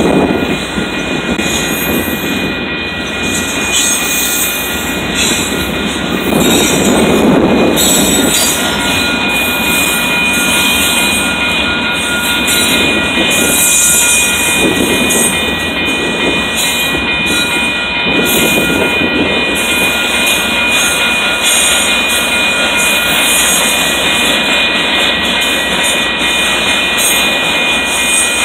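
Double-stack intermodal container cars of a freight train rolling past, a steady rumble of steel wheels on the rails that swells every few seconds.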